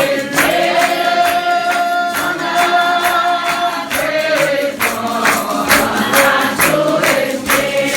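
A congregation singing a slow hymn together in unison, holding long notes, with percussion struck about twice a second.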